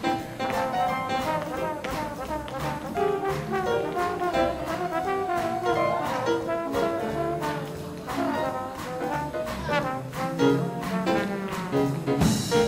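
Live big band jazz, with the trombone and trumpet section playing over a steady percussive beat. A loud crash comes near the end.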